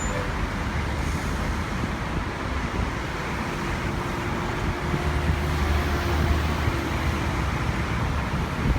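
Steady engine and traffic rumble, with a faint steady hum coming in about three seconds in and a heavier low rumble from about five to seven seconds.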